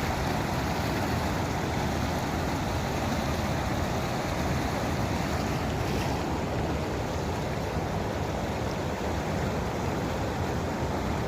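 Floodwater rushing steadily over a village tank's overflow weir (alugu) that is running high after heavy rain.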